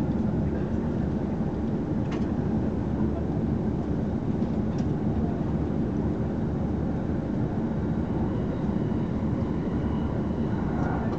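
Steady rumble of a commuter train running at speed, heard from inside the passenger car, with a couple of faint clicks.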